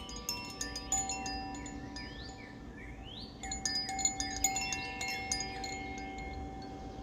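Koshi Fire (Ignis) chime swaying and ringing: its metal rods tinkle in irregular clusters against the clapper and leave long overlapping tones, with a busier cluster of strikes about halfway through.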